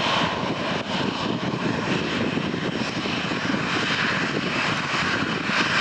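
Jet airliner's engines running, a steady rushing rumble.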